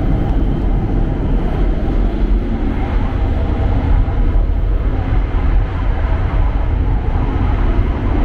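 Steady low rumble of a Tohoku Shinkansen Hayabusa train running on the line, heard from inside the car.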